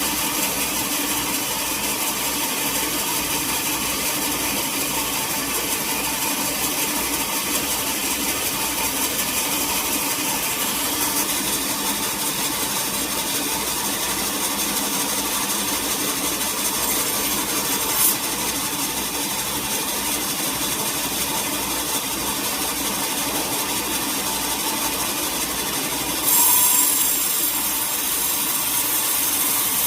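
Sawmill machinery running steadily while milling a teak log, with a sharp click about eighteen seconds in. Near the end a louder, hissing saw noise sets in.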